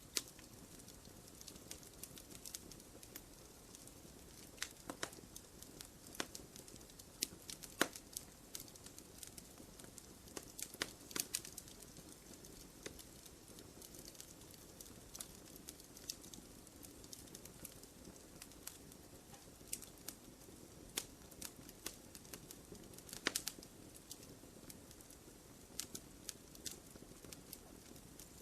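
Wood fire crackling in a fireplace: a low steady hiss with irregular sharp pops and snaps, a few louder ones scattered through.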